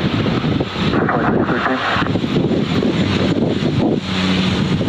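Airliner engine noise with wind buffeting the microphone, under air traffic control radio chatter. A steady low hum starts near the end.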